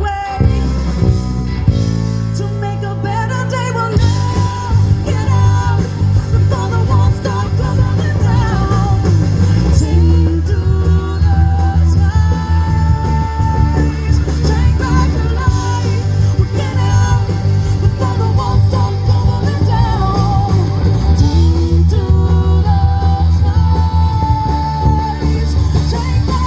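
Rock band playing live with a singer, guitar and a heavy bass and drum backing; the band gets fuller about four seconds in.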